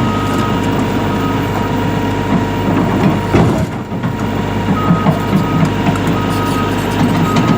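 Caterpillar 352F hydraulic excavator running steadily under load, with a warning alarm sounding repeated short beeps at one high pitch.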